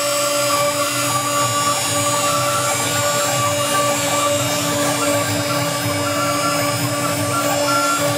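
A CNC router's 2.2 kW water-cooled spindle running steadily while finish-machining a relief: a steady whine of several tones over a continuous cutting noise.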